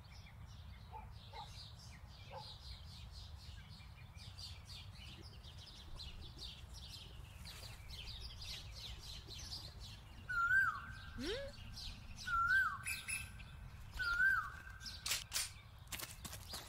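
Birdsong ambience: many small birds chirping, with a clear whistled call repeated three times, about two seconds apart, in the second half. A few sharp clicks come near the end.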